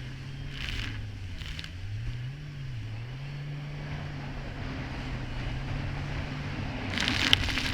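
Kawasaki Ultra 300X jet ski's supercharged four-cylinder engine running, its pitch dipping and rising several times as the throttle varies over choppy water. Short splashes of spray come through twice early on, and a louder splash with a sharp knock near the end.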